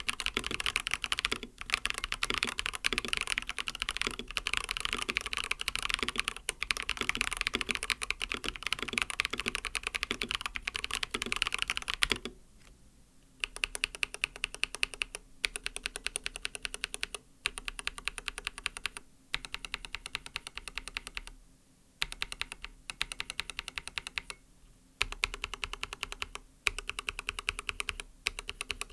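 Typing on an mStone Groove T mechanical keyboard with lubed MMD Coral 45g switches and silicone plate foam. Fast continuous typing gives way, about twelve seconds in, to a short pause. Then come slower, evenly spaced keystrokes in small groups with brief gaps, as single keys are pressed several times over.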